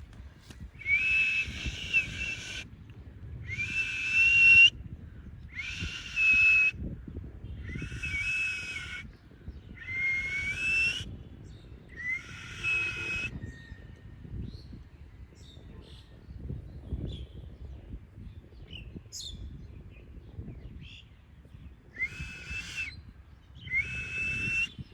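Parrot giving a series of loud, harsh calls, each about a second long and slightly rising in pitch: six in a row about a second and a half apart, then a pause with a few faint chirps, and two more calls near the end.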